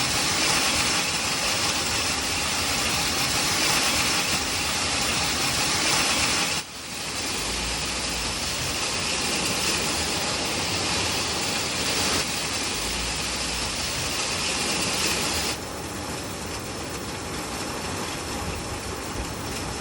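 Hailstones pelting down in a dense, steady clatter. The sound changes abruptly about a third of the way in and again about three quarters of the way through.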